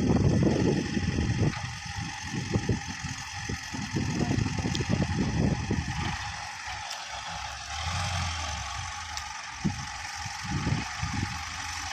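Tractor engine running, its level rising and falling with irregular low surges.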